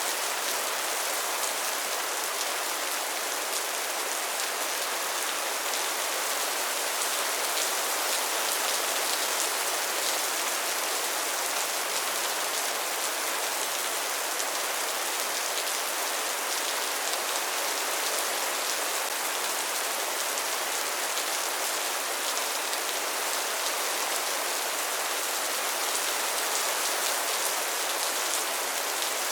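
Steady rainfall, an even hiss of many raindrops striking a surface, with fine patter throughout and no thunder.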